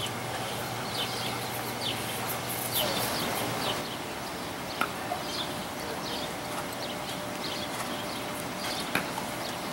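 Small birds chirping again and again in short falling notes over a steady outdoor background, with two sharp clicks, one about halfway and one near the end.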